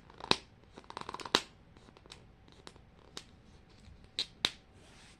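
Plastic toy packaging being handled and opened by hand: a few sharp clicks and crackles, with a quick run of small clicks about a second in and two more sharp clicks just after four seconds in.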